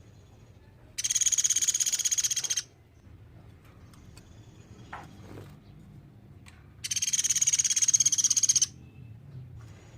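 Pelatuk beras woodpecker giving two rapid, high-pitched trills, each about one and a half seconds long, about four seconds apart.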